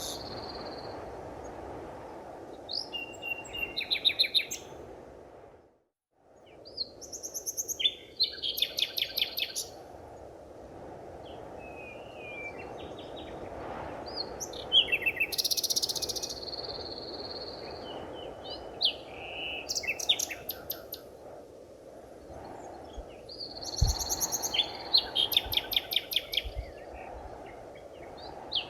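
Several wild birds calling, with repeated chirps and quick trills coming in bouts, over a steady low rushing background. The sound drops out completely for about half a second about six seconds in.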